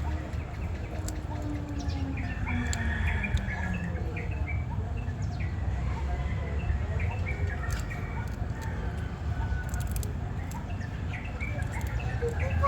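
Outdoor ambience: short bird chirps scattered over a steady low rumble.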